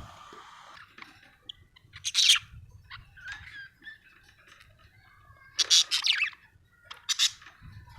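Budgerigar chirping in short, loud bursts a few seconds apart, with softer warbling chatter between them.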